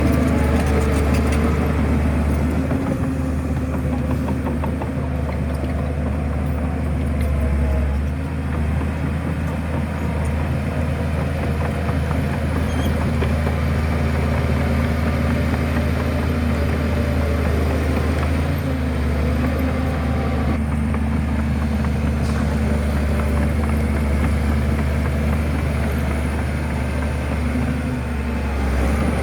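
Shantui bulldozer's diesel engine running steadily with a deep, even hum, easing briefly about eight seconds in and again near the end.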